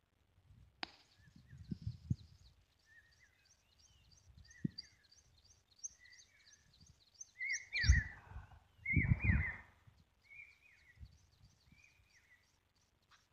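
Birds calling: a quick, even series of high chirps, about three a second, over a lower call repeated every second or so. Two louder low rumbles come about eight and nine seconds in.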